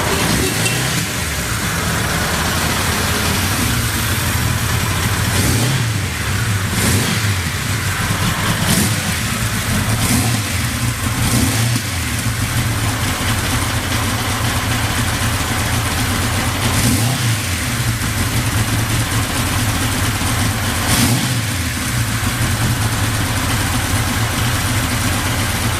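Suzuki GS1100E air-cooled inline four-cylinder motorcycle engine idling, with the throttle blipped about seven times so the revs rise briefly and fall back. It runs smoothly with no abnormal noises.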